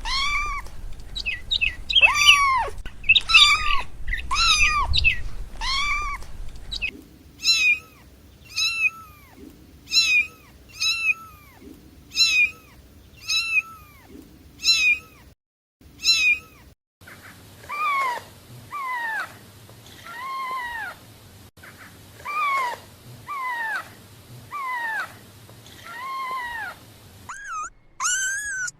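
Kitten meowing over and over, about one short high meow a second, each call rising and then falling in pitch.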